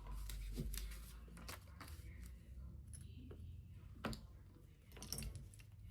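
Plastic Lego pieces being handled and snapped together: a scatter of small, sharp clicks and taps at irregular intervals.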